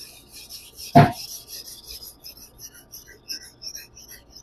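Nakiri knife blade being stroked back and forth on a Majin 600-grit whetstone: a quick run of short rasping strokes, about three to four a second. There is one loud knock about a second in.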